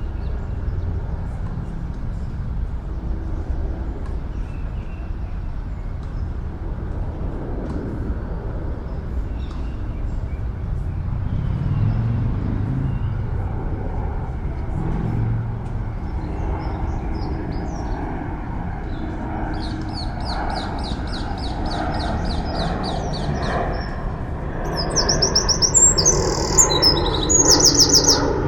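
A songbird sings two fast trilled phrases of rapidly repeated high notes, the second louder, over a steady low drone of city traffic.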